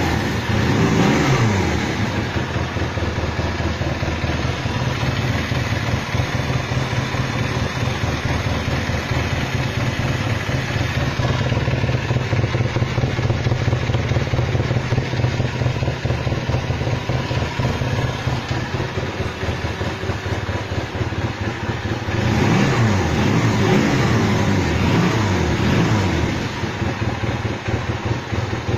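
Honda CM125 Custom's air-cooled parallel-twin four-stroke engine running at idle after starting. The throttle is blipped briefly near the start, then several times in a row about 22 seconds in, before the engine cuts off at the end.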